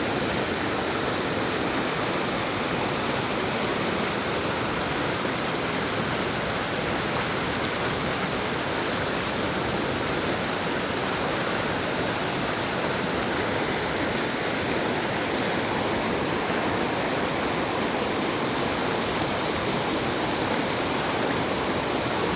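Waterfall: water pouring and rushing steadily, with no change throughout.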